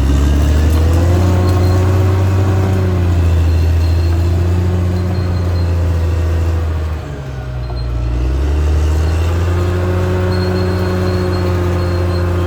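Caterpillar D6R XL bulldozer's diesel engine running under load. The engine note sags and quietens briefly about seven seconds in, then climbs back up.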